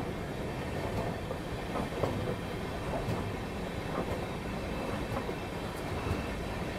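Passenger train coaches rolling slowly out of a station, heard from an open coach door: a steady rumble of wheels on rails with a light clack about once a second.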